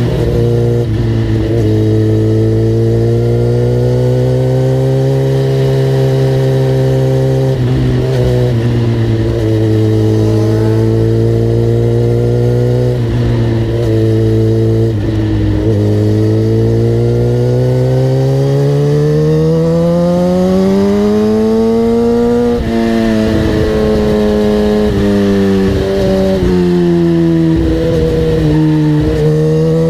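A vehicle engine running hard and loud. Its pitch holds steady for long stretches, climbs slowly about two-thirds of the way through, then drops, with several brief dips along the way.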